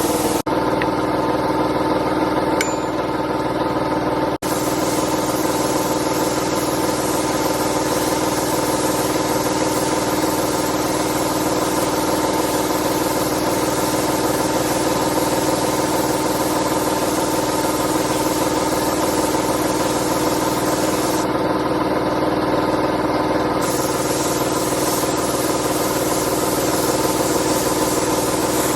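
A motor running steadily at one unchanging pitch, with two brief cuts about half a second and four seconds in.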